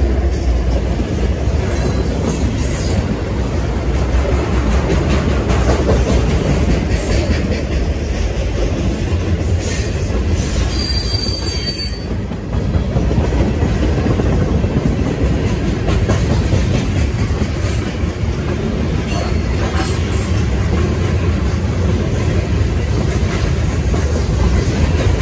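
Freight cars (autoracks, a centerbeam flatcar and covered hoppers) rolling past close by: a steady loud rumble of wheels on rail, with a brief high wheel squeal about eleven seconds in.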